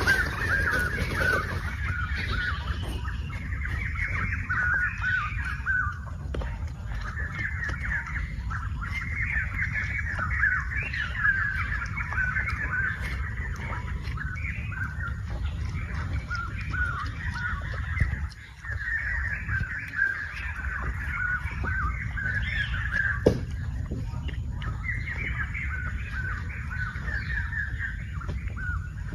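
Birds calling in dense, chattering bouts of several seconds each, with short gaps between them, over a steady low rumble.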